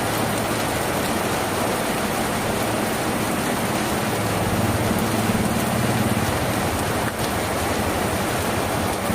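Steady heavy rain falling on a tin roof, a dense even hiss. A low hum swells under it about halfway through and fades again.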